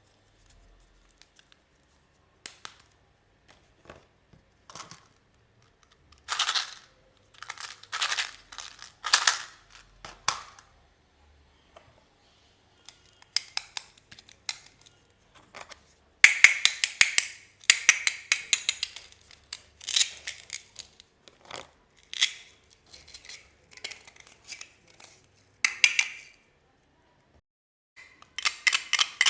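Packaging being handled and opened: irregular crinkling, tearing and sharp clicks of wrappers and plastic parts, busier in the second half.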